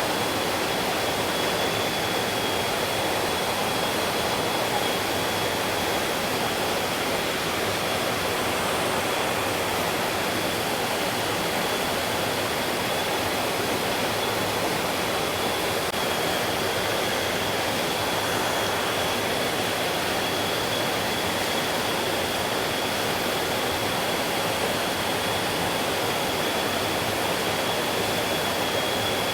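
Mountain stream rushing steadily over rocks, an even wash of flowing water, with a thin steady high tone over it.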